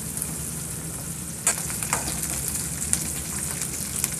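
Sliced onions sizzling in hot mustard oil in a steel kadhai, stirred with a ladle that knocks sharply against the pan a few times.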